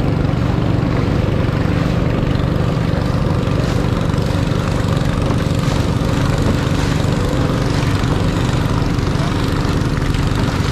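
Long-tail boat's engine running steadily at cruising speed, with a constant droning hum.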